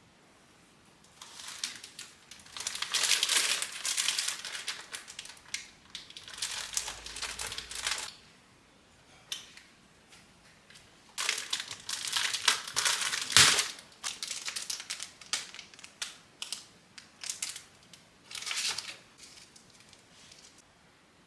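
Crinkly wrapping material being handled and crumpled by hand: irregular bursts of crackling, loudest near the start and again a little past halfway, with one sharper knock in the middle of the second loud spell.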